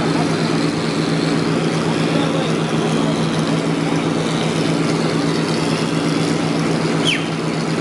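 An engine running steadily with an even hum, with a short falling squeak about seven seconds in.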